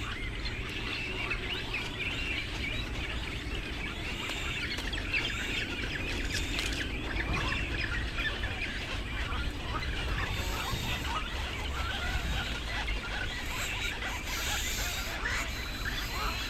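Many birds calling at once: a dense run of short, overlapping chirps and clucks throughout, over a steady low rumble.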